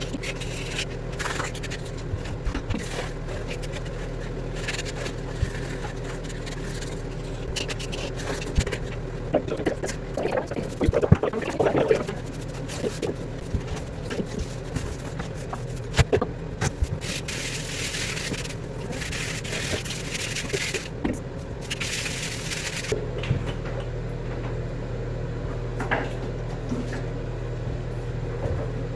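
Hand tool scraping and knocking at the tile joints as old silicone caulk is cut out, in irregular scrapes and taps with a louder flurry about a third of the way in, over a steady low hum. A few stretches of hiss come past the middle.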